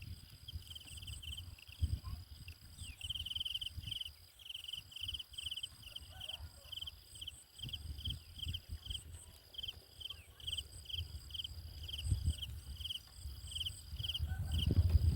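Outdoor insect chorus: a steady high-pitched drone with short regular breaks, over a run of short high chirps about twice a second. Irregular low rustling and bumps, louder near the end.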